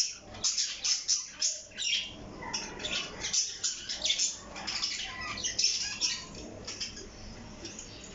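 Parrot chirping and squawking in a rapid run of short, high-pitched calls that thin out and grow quieter near the end.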